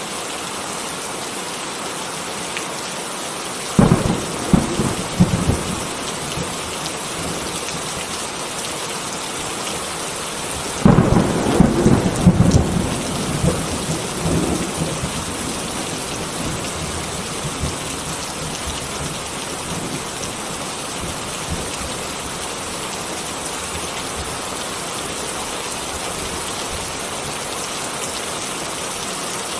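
Steady rain falling, with two claps of thunder rumbling and crackling, a shorter one about four seconds in and a longer, louder one about eleven seconds in.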